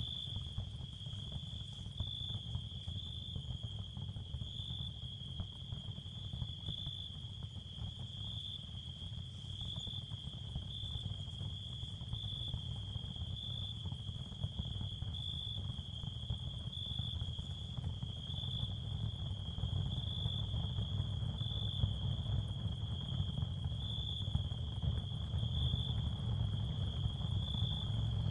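Ambient sound field of crickets chirring in a steady high trill that swells gently about once a second, over a low rumbling noise bed that grows slightly louder in the second half.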